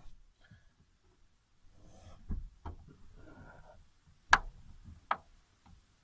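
Reflective window covers being taken down inside a car: short stretches of rustling and a few sharp knocks and clicks. The loudest knock comes about four seconds in, with another about a second later.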